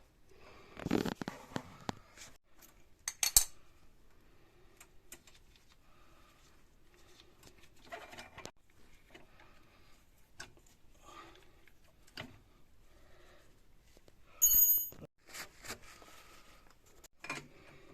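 Intermittent clinks, knocks and rattles of tools and small metal parts being handled, with a rattle about a second in, a sharp clink a little later, and a brighter ringing metallic clink about three-quarters through.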